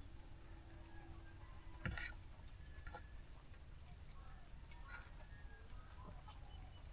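Crickets chirring steadily in the background, with a few faint scattered chirps and a single sharp click about two seconds in.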